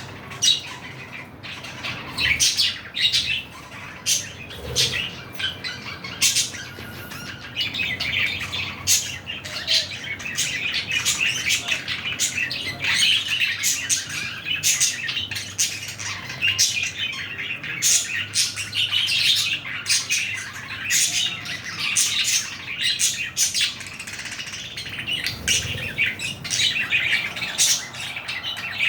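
A pair of green budgerigars chattering and chirping continuously, with frequent short sharp calls.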